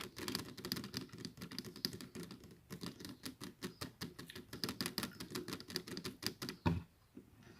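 Rapid run of light clicks and taps, several a second, like keys being struck, ending in a louder knock near the end.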